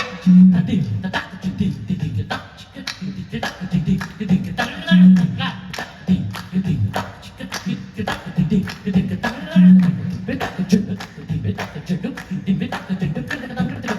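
Carnatic rhythmic percussion: quick, uneven sharp strokes over deep low tones that bend in pitch, in a fast improvised South Indian rhythm.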